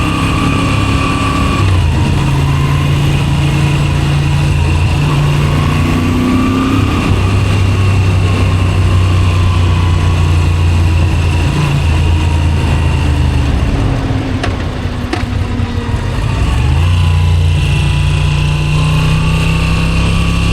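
Moto Guzzi V7 Special 850's air-cooled transverse V-twin running through a Zard exhaust while riding. The engine note shifts in pitch several times as the rider changes speed, easing off briefly about two-thirds in and then pulling again.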